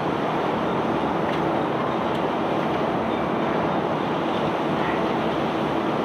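Self-unloading barge's discharge machinery running under load: a steady, even rumble with a few faint knocks.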